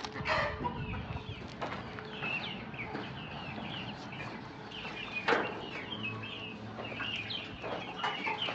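Chickens calling, with many short high calls repeating throughout. There is a single sharp knock about five seconds in.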